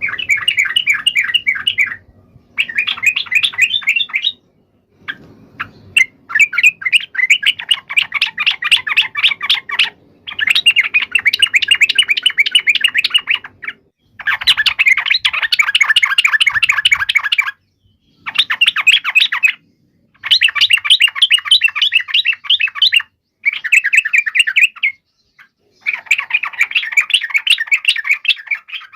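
Yellow-vented bulbul (trucukan) calling in fast, chattering rolled phrases of about 2 to 4 seconds each, repeated again and again with short pauses between: its fighting call.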